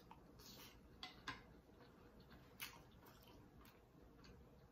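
Near silence broken by a few soft, sharp clicks and wet smacks from a man chewing a mouthful of rice: close-up eating sounds.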